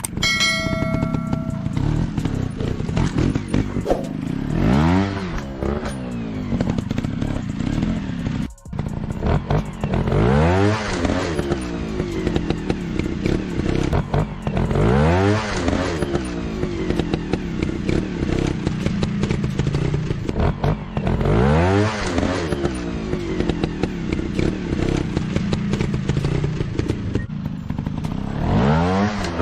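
Motocross trail-bike engine revving up repeatedly, its pitch rising in a sweep about every five to six seconds over a steady running drone, with clattering. A brief ringing tone sounds at the very start, and the sound drops out for an instant about a third of the way through.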